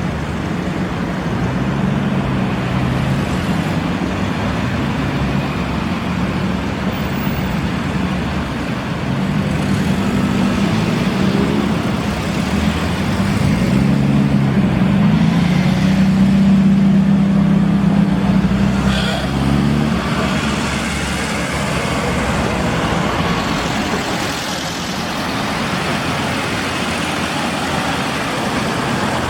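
Classic cars driving past, engines and exhaust running over road noise. One car's engine note grows louder from about the middle and drops away about two-thirds of the way through.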